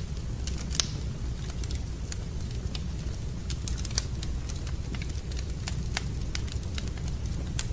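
Wood fire crackling in a fireplace: irregular sharp pops and snaps over a steady low rush, with two louder pops about a second in and near the middle.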